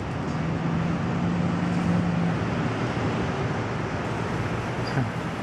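Steady hum of city traffic, with one vehicle's engine hum standing out for the first couple of seconds.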